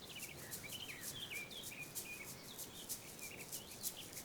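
Meadow ambience: small birds chirping in short, quick twitters, over an insect's steady high pulsing at about five pulses a second.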